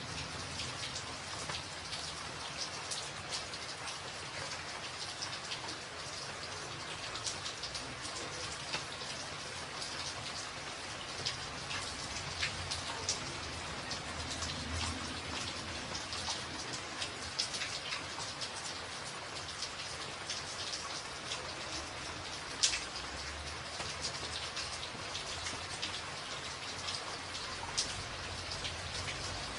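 Steady rain on a tin roof: an even rush of rain with frequent sharp, separate drop hits on the metal. One drop strikes noticeably louder than the rest about three-quarters of the way through.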